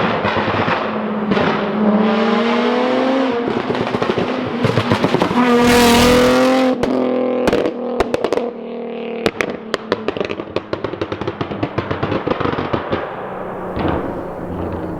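A 2006 Infiniti G35 Coupe's 3.5-litre VQ35DE V6 revving through a Tomei single-exit 3-inch exhaust with Manzo test pipes and a Z1 Y-pipe. The pitch rises and falls, with a strong climb about five seconds in. After that the revs drop and the exhaust pops and crackles sharply many times on the overrun.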